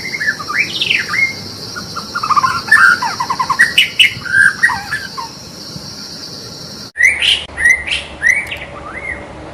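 White-rumped shama singing: a fast run of varied whistled phrases that glide up and down, with quick trills between them. A steady high buzz sits behind the song and stops abruptly about seven seconds in.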